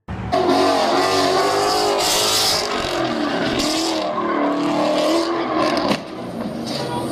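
A car being driven hard, its engine and tyres loud with wavering, squeal-like tones and bursts of hiss. The sound drops somewhat about six seconds in and cuts off suddenly at the end.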